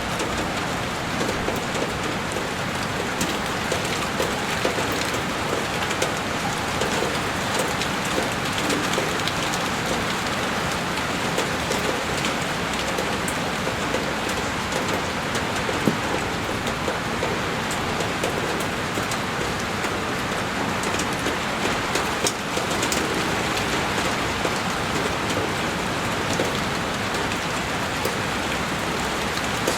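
Heavy rain falling steadily on a window: a dense, even patter with scattered sharper drop ticks.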